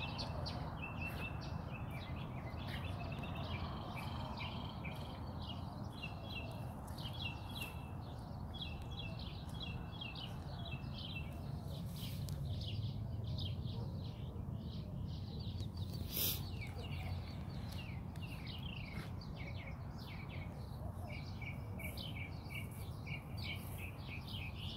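Small birds chirping and twittering again and again over a steady low background rumble, with one brief click about sixteen seconds in.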